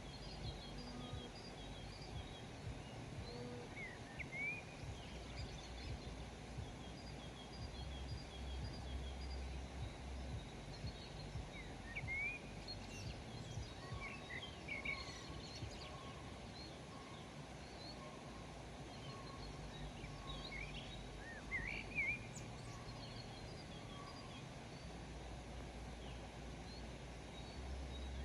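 Wild birds chirping off and on in a rural outdoor soundscape: short rising chirps come in scattered clusters, with fainter repeated high notes behind them, over a steady low background rumble.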